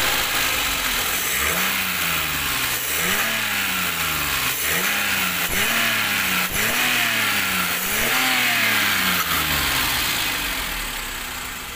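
Maruti Alto 800's three-cylinder petrol engine revved in about six quick blips, each rise in pitch falling back, then settling to idle near the end. It runs without misfiring, its valves and valve seals newly replaced.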